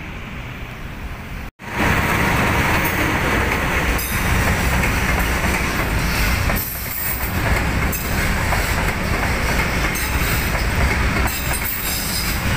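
Container freight train rolling past on flat wagons: a steady loud rumble of wheels on rail with a clickety-clack over the rail joints, starting abruptly about a second and a half in.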